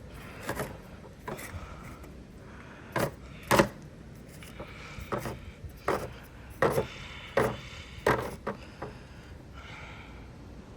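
Window blinds being handled: slats clacking and knocking irregularly, about a dozen times, with some rubbing, the loudest knock about three and a half seconds in.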